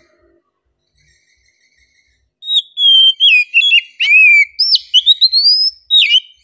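Oriental magpie-robin (kacer) singing: a loud phrase of clear whistles and swooping slurred notes, broken by short pauses, starting about two and a half seconds in.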